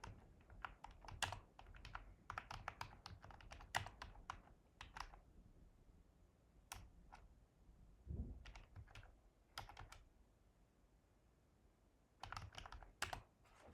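Typing on a computer keyboard: quick runs of key clicks with short pauses between them and a longer lull near the end before a last burst.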